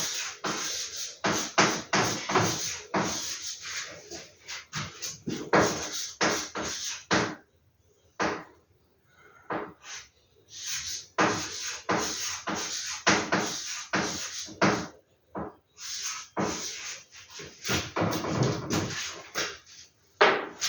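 Paper posters being handled: rustling and crinkling in quick runs of crackles, with a few short pauses.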